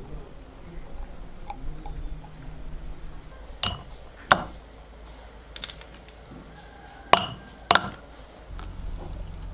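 Dishes or utensils clinking: four sharp clinks with a short ring, in two pairs about three seconds apart.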